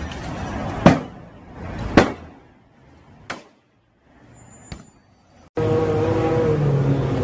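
Four sharp blows about a second apart, each fainter than the last, as something is struck and fails to break. About five and a half seconds in, the sound switches suddenly to a car engine running steadily.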